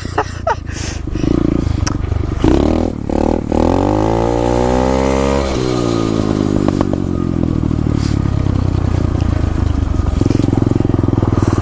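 SSR 125 pit bike's single-cylinder four-stroke engine revving up hard for about two seconds, then dropping back and running at lower revs. A few knocks and scrapes come near the start.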